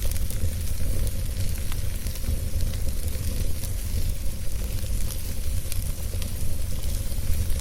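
Wood fire burning with a steady low rumble, wood crackling and popping in many small sharp snaps throughout.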